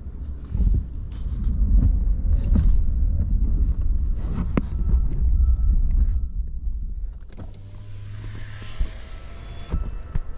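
Truck driving over snowy roads, heard from inside the cab: a steady low engine and road rumble with scattered knocks and rattles. Near the end a short steady motor whine runs for about two seconds.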